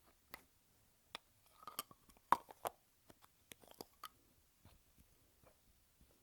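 Lipstick tube handled close to the microphone: a quick run of small clicks and taps from the tube and its lid, busiest and loudest in the middle of the stretch, then sparser.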